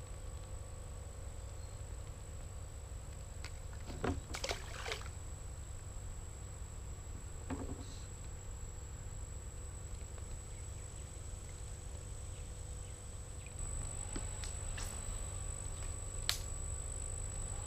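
Outdoor ambience on a fishing kayak: a steady low rumble with a thin, steady high whine over it, broken by a few light knocks and clicks of gear, a cluster about four seconds in, one near eight seconds and a sharp one near the end.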